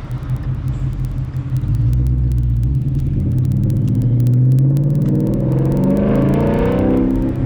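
Car engine running, getting louder about two seconds in as the revs pick up and then held at higher revs.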